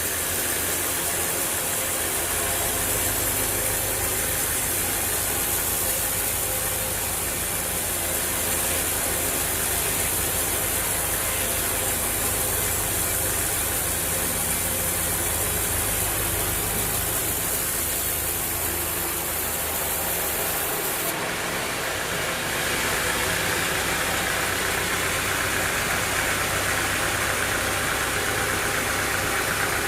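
Sawmill engine running steadily, with a constant low hum and hiss; the sound changes about twenty seconds in, the top hiss dropping and the middle range getting stronger.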